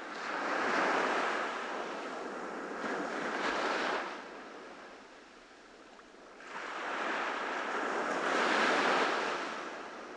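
Ocean surf: waves breaking and washing up the beach, two long surges with a quieter lull between them.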